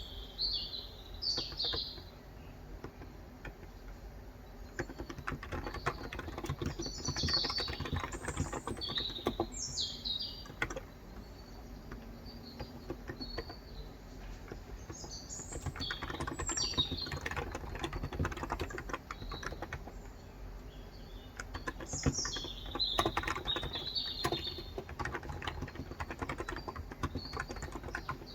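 Typing on a Cox Endeavor electro-capacitive (Topre-style) tenkeyless keyboard with 35 g switches: bursts of rapid key presses with short pauses between. Birds chirp on and off in the background.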